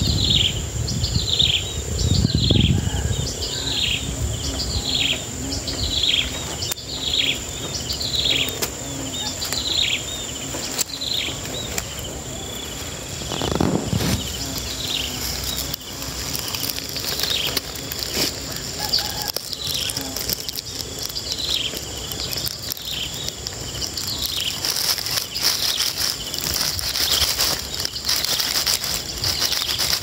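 A bird repeats a short, high, falling chirp about once a second, strong at first and fainter after the first third, over a steady high-pitched insect drone. Leaves and grass rustle close by, with a bump near the start and another about midway.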